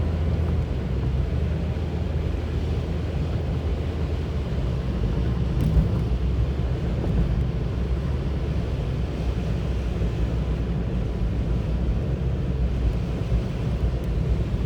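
Steady road and engine rumble inside a moving car's cabin, with tyre noise from driving on a salted, icy road. There is one brief knock about six seconds in.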